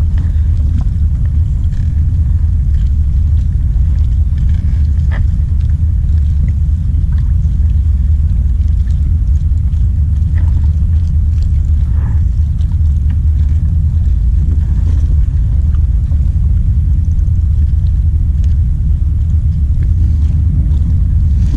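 Steady low rumble of wind buffeting the camera microphone, with a few faint small knocks scattered through it.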